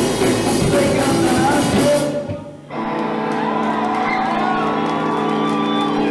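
Punk rock band playing live with drums and electric guitar; the song stops abruptly about two seconds in, and after a brief gap a steady amplified guitar tone is left ringing.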